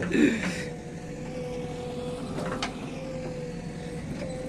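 A heavy machine's engine running steadily: a low rumble with a steady whining tone over it.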